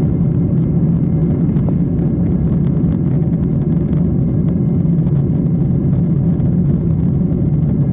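Airliner cabin noise: the jet engines' steady low drone heard from inside the cabin, even in level throughout.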